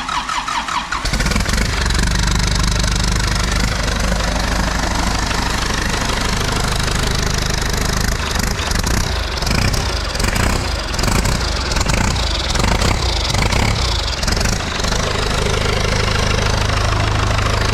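Caterpillar backhoe diesel engine cranked by its starter, catching about a second in and running, with an uneven beat in the middle before settling to a steady idle near the end.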